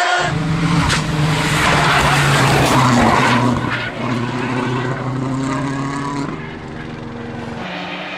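Rally car driven hard, its engine running at high revs with the pitch shifting as it changes gear, under a loud rush of tyre and road noise that peaks a few seconds in and eases near the end.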